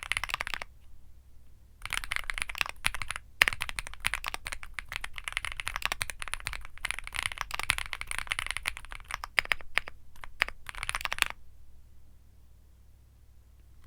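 Womier SK75 mechanical keyboard with Womier Mint Blizzard switches being typed on fast. Keystrokes come in short bursts at first with a brief pause, then run as dense, continuous clicking until they stop about three quarters of the way through.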